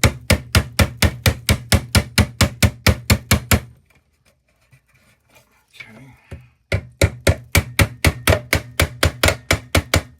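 A hammer tapping rapidly on the pressed-steel Tonka toy truck, about five light blows a second, to drive the chassis home in the bed's slots. The blows come in two runs with a pause of about three seconds in the middle.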